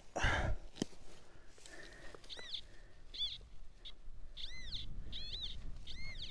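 A spade thuds into the ground just after the start. From about two seconds in, a bird gives a series of short calls that rise and fall in pitch, with a few longer drawn-out ones near the end.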